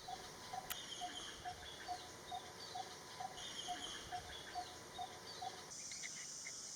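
Faint garden birdsong: one bird repeats a short, low note about twice a second while other birds chirp higher up. Near the end the repeated notes stop and an insect's steady high buzz sets in.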